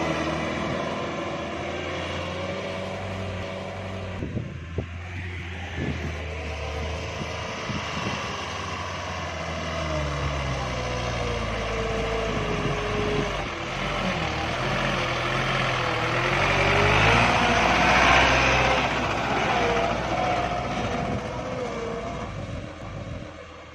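Engine of a light single-axle truck loaded with sand and gravel, working hard on a dirt road, its pitch wavering up and down. It grows louder about three-quarters of the way through, then fades at the end.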